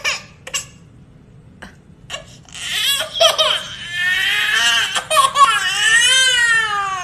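A baby crying in long wails that rise and fall in pitch, starting about two and a half seconds in, after a few short vocal sounds.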